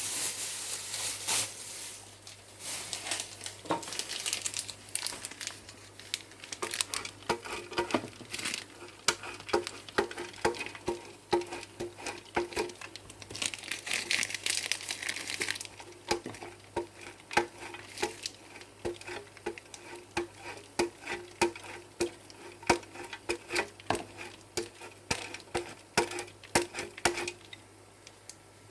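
Plastic packet of grated cheese crinkling and rustling as cheese is sprinkled onto food, with many light taps and clicks and a short burst of rustling about halfway through.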